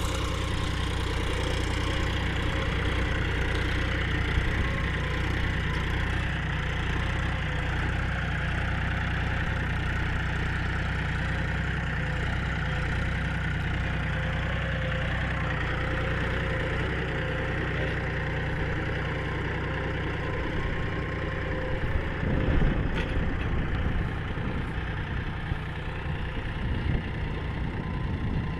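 Diesel engines of a backhoe loader and tractors running steadily, a deep even drone. About twenty seconds in the low drone turns rougher and uneven, with a sharp knock a little later.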